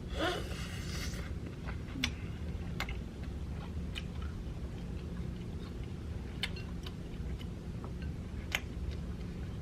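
Close-miked chewing with scattered sharp mouth clicks and smacks, over a low steady hum.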